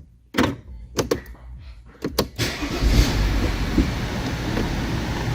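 A few sharp clicks, then about two and a half seconds in the Audi A6 C6's engine starts and runs steadily: the car starting, which a working steering column lock (ELV) allows.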